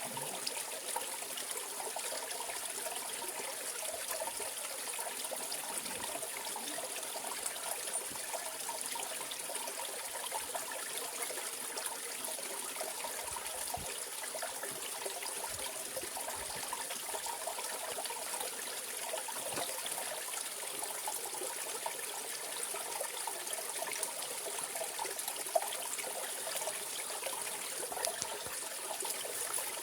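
Mountain stream running and trickling over rocks, a steady, unbroken wash of water.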